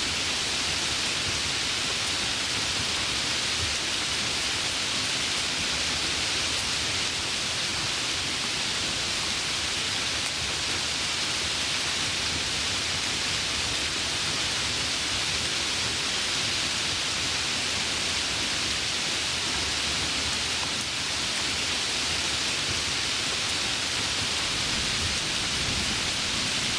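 Heavy rain falling in a steady, even hiss, with no distinct drops or thunderclaps standing out.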